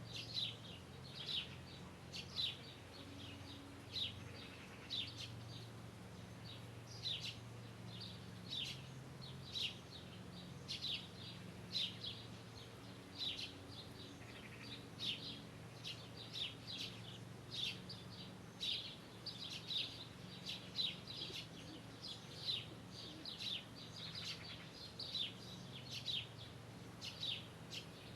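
A bird chirping over and over, short high chirps coming about once or twice a second throughout, over a faint steady low hum.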